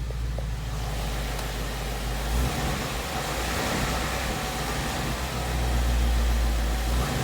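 2017 Mustang GT's 5.0-litre V8 running at low revs with a steady low rumble, swelling slightly in loudness near the end. This is the speed range where the owner hears a knocking or ticking noise, which Ford dealers have called normal and he does not.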